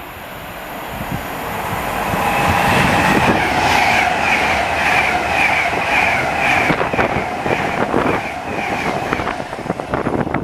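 A train passing close by, its rolling noise building over the first few seconds. A high squeal from the wheels pulses a couple of times a second through most of the pass, and the wheels click over rail joints in the second half.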